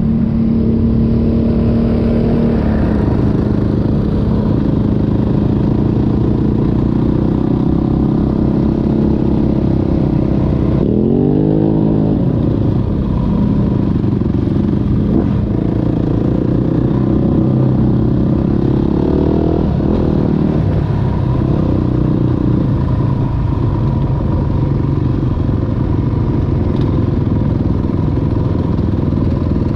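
Yamaha 450 dirt bike's single-cylinder four-stroke engine running steadily, with a rev that rises and falls about eleven to thirteen seconds in.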